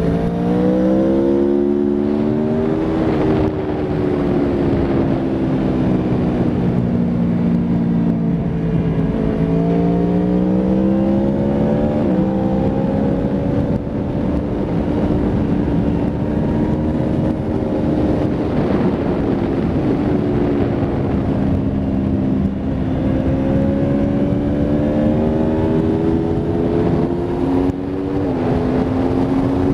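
Aprilia Tuono V4 RR's 65-degree V4 engine at track speed, its pitch repeatedly climbing under acceleration and falling off when braking, with sudden drops in pitch at gear changes, over a steady rush of wind.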